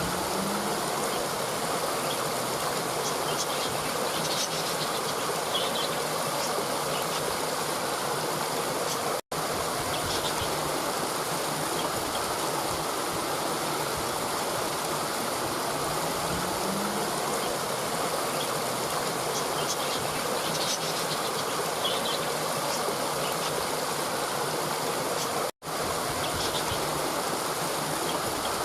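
Steady rushing of a stream with faint, scattered high bird chirps over it. The sound cuts out for an instant twice.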